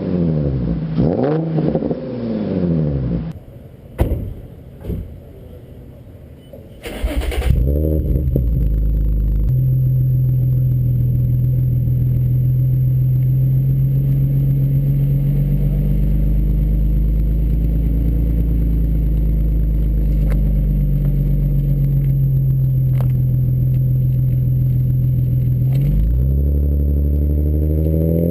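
Infiniti G35 coupe's 3.5-litre V6 through an ARK GRiP exhaust, blipped in several quick revs. After a cut, the engine starts about seven seconds in and settles into a steady idle. It begins to rev up again near the end.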